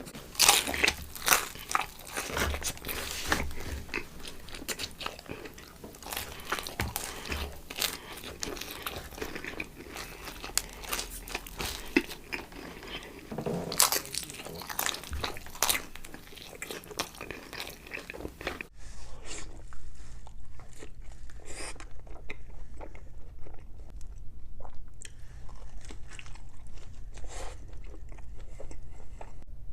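Close-miked biting and chewing of pizza, with crisp crust crunching and crackling in quick strokes. About two-thirds in the sound turns duller and quieter as another recording of the eating begins.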